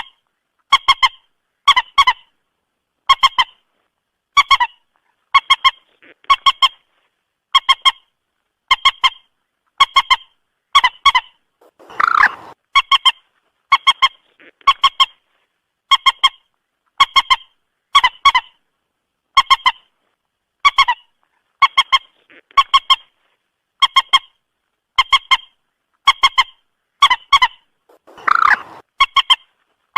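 Moorhen call recording: a short, honking double-note call repeated evenly about once a second. Two longer, harsher calls come about 12 seconds in and near the end. It is a lure call played to draw moorhens to a trap.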